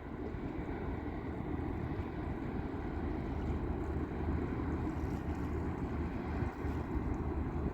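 Ship and tugboat engines running as a steady low drone, with wind on the microphone.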